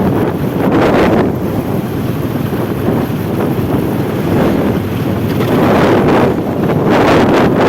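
Roadside traffic noise: a steady rumble of passing vehicles' engines and tyres, with wind buffeting the microphone.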